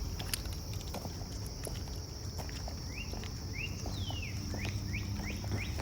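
A songbird repeating quick rising chirps, about three a second, with a longer falling note near the middle, over a steady high insect drone. Scattered light ticks of footsteps can be heard along with it.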